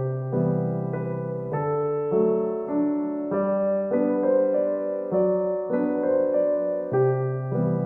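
Background music: a gentle solo piano piece, notes and chords changing about every half second to a second at an easy, even pace.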